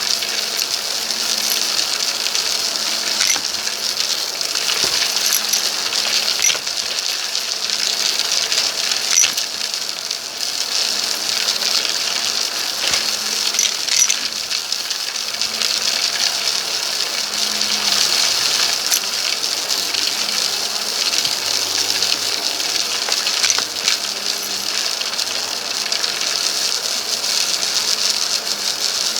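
Vacuum cleaner running steadily with a high hiss. Scattered small clicks and rattles come from debris being sucked up.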